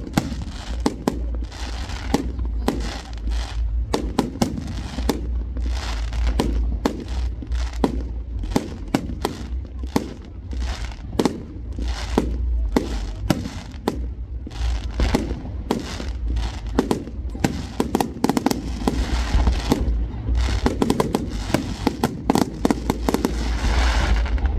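Fireworks display going off: a continuous run of bangs and crackles, many shells bursting in quick succession over a deep rumble.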